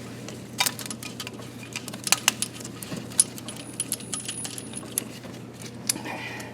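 Metal hardware of a ratchet strap being handled and released: a dozen or so scattered light metallic clicks and clinks.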